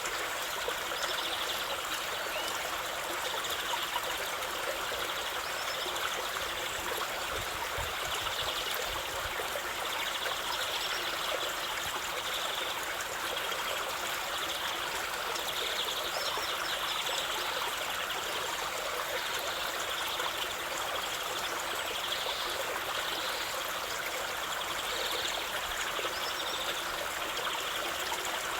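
Stream of running water, trickling and splashing steadily without pause.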